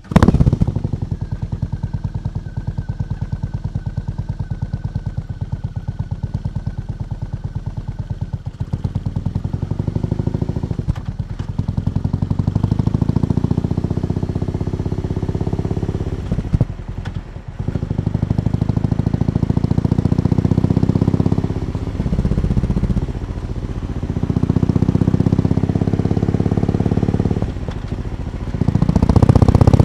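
BMW R18 B's big two-cylinder boxer engine running through its stock exhaust, idling with a rapid, even beat and revved up several times in the second half.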